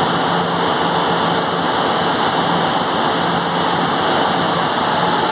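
Steady, loud din of a cargo ship's engine-room machinery running, a dense roar with a faint low hum underneath.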